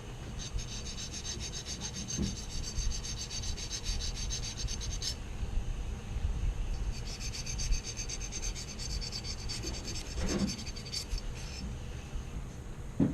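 Rapid back-and-forth scrubbing of an AR-15 part during cleaning, in two bouts of about five seconds each, with a light knock about ten seconds in.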